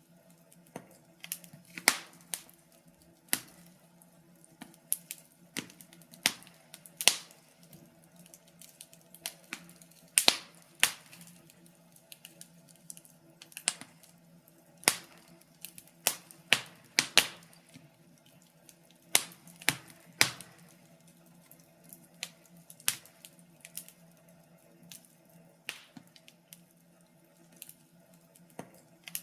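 Wood fire crackling: irregular sharp snaps and pops at uneven intervals, some much louder than others, over a faint steady background.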